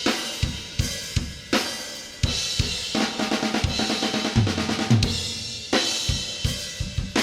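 Soloed metal drum kit recording played back: kick, snare and cymbals, with a fast run of kick drum hits about halfway through. It runs through a VCA compressor set to slow attack and fast release, which lets more of the hits' transients through.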